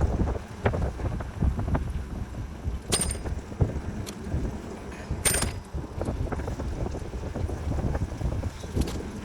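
Wind buffeting the microphone in an uneven low rumble during an outdoor ride, with two brief sharp clicks about three and five seconds in.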